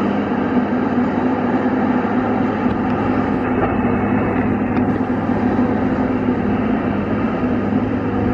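Caterpillar 552 feller buncher's diesel engine running steadily under a constant hum.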